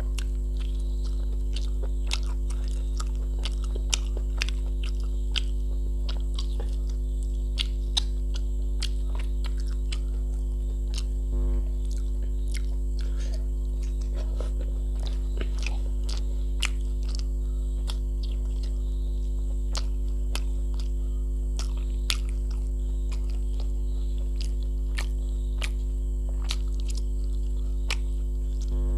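Close-miked mouth sounds of a person eating rice and mutton curry by hand: wet chewing and lip-smacking, heard as many short scattered clicks. A steady low hum runs underneath and is the loudest part.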